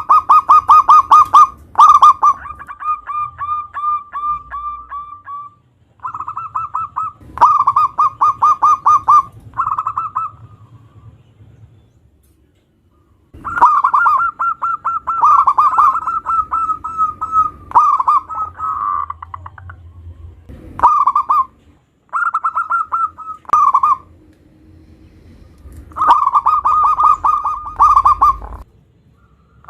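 Zebra dove (perkutut) singing: phrases of fast, repeated cooing notes, each phrase one to a few seconds long, broken by short pauses.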